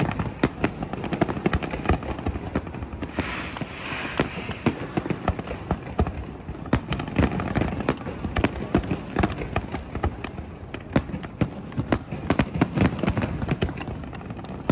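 Aerial fireworks going off: a dense, rapid stream of bangs and crackles over a low rumble, with a hissing burst about three seconds in.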